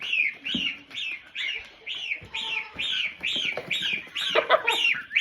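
Young geese peeping: a steady run of high calls, about two a second, each rising and then falling in pitch. A lower, rougher call comes in briefly past the middle.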